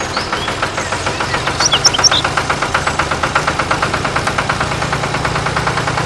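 A small electric motor running a toy mechanism, with a steady hum and a fast, even clatter of ticks, and a few brief high squeaks about two seconds in.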